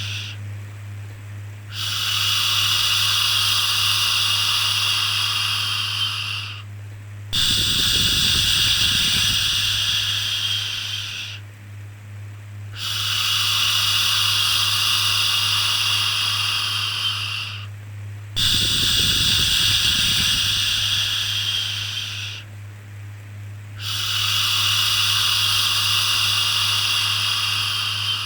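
Repeated long 'shhh' shushing sounds for soothing a baby, each lasting about four to five seconds with a short pause between them, five in all, over a steady low hum.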